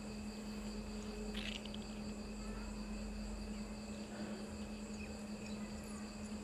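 Steady high-pitched insect drone over a constant low hum, with a few faint clicks and a short rustle about a second and a half in.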